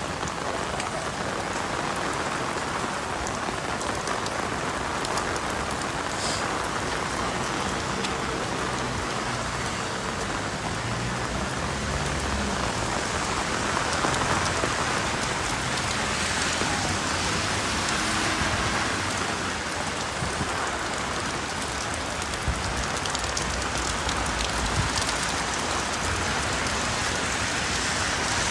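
Steady rain falling on a wet city street, a continuous even hiss of drops.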